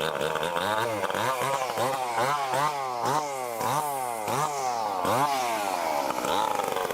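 Stihl MS 881 two-stroke chainsaw cutting through a large log, a bit loud. Its engine pitch rises and falls about three times a second as the saw works in the cut.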